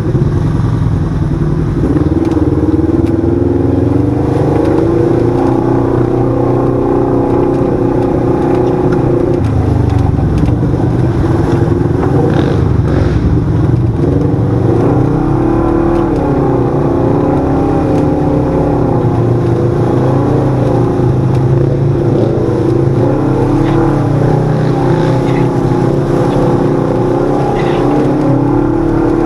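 Side-by-side UTV engine running under way, its note rising and falling with the throttle.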